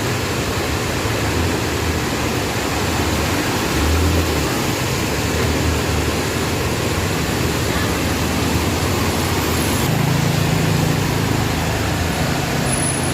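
Steady rush of heavy rain, with a motor vehicle's engine running low underneath.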